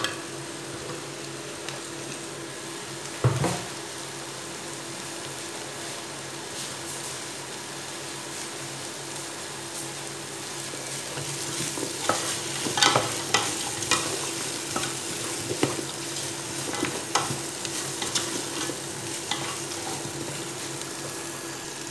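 Dried anchovies and sliced taro sizzling in oil in a metal pot, with a single knock about three seconds in. From about halfway on, a wooden spatula stirs and scrapes through the pot, with a run of clicks and knocks against the metal.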